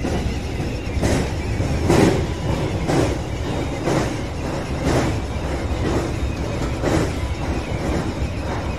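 Electric commuter train running at speed, heard from inside its front car as it crosses a steel truss bridge: a steady rumble with the wheels clacking over rail joints about once a second.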